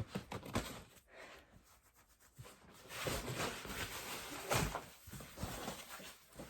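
Packaging and scooter parts being handled during unboxing: a few knocks at first, then about three seconds of rustling and scraping with a louder thump midway.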